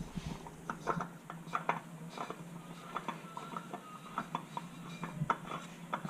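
Small, irregular clicks and knocks of hand work as a new oil filter is fitted and spun onto its mount by hand.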